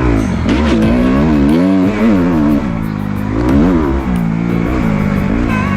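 Dirt bike engine being ridden, the throttle opening and closing so the engine note rises and falls several times.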